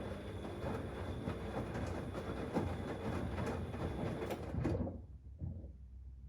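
Siemens XLS 140 A front-loading washing machine's drum turning with wet laundry and water sloshing and knocking inside. It stops abruptly near the end, then gives one faint bump.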